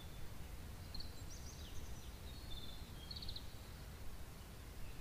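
Garden ambience: a small songbird giving short high chirps and a quick trill a few times, over a steady low rumble.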